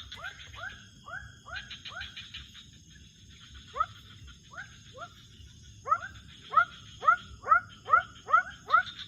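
Night wildlife chorus: an animal repeats short calls that rise in pitch, a few at first, then a faster and louder run of about a dozen near the end. A steady high-pitched trilling and pulsing runs under it.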